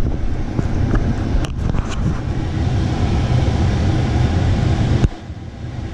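A motor vehicle's engine running with a steady low rumble, dropping sharply in level about five seconds in.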